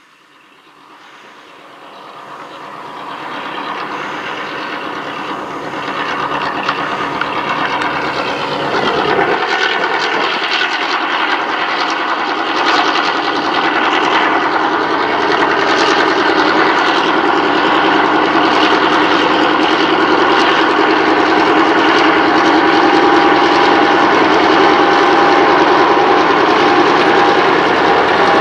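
Four Clyde-built EMD 49 class diesel-electric locomotives hauling a loaded grain train, their engines growing steadily louder over the first several seconds as they approach and pass. The steady rolling noise of the hopper wagons over the rails follows, with a thin, steady high tone in the last few seconds.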